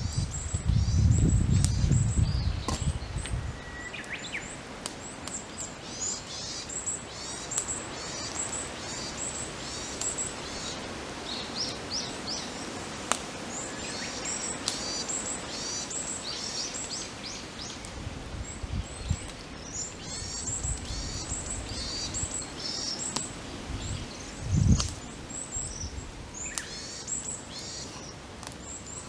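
Small birds singing, a quick run of high chirps repeating over and over, over the scattered sharp crackles and pops of a wood campfire. A low rumble in the first few seconds and a short low thump near the end.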